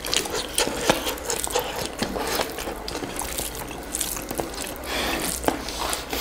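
Close-miked eating: chewing and mouth smacks on fried chicken wings, with many irregular sharp clicks.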